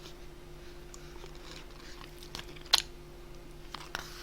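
A person chewing food close to the microphone, with soft mouth clicks and one sharper click a little past halfway.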